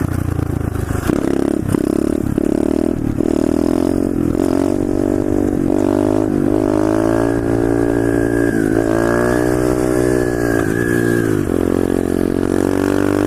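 125cc SSR pit bike's single-cylinder four-stroke engine revving hard for a wheelie: the pitch climbs in several steps with short breaks as the throttle and gears change, holds high for a few seconds with brief dips, then drops back to a lower steady pitch near the end.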